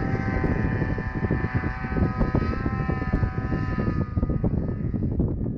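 Snowmobile engine running at high, steady revs, its note fading away after about four seconds, over a loud low rumble.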